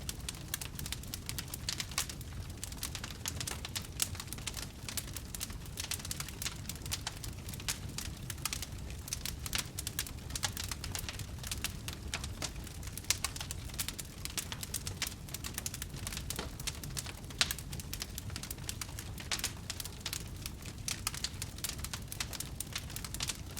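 Wood fire crackling steadily, dense irregular snaps and pops over a low rumble of burning, with an occasional louder pop.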